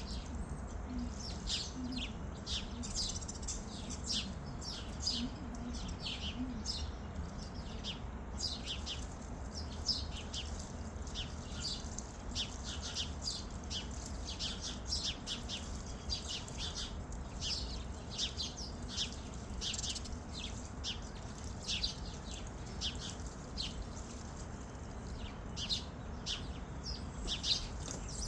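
Small birds chirping continuously, a steady chatter of many quick, high, short chirps. There are a few low, wavering calls in the first few seconds.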